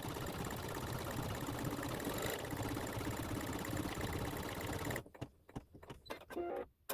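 Computerized embroidery machine running steadily while it stitches a satin-stitch edge, then stopping abruptly about five seconds in. A few short, separate sounds follow near the end.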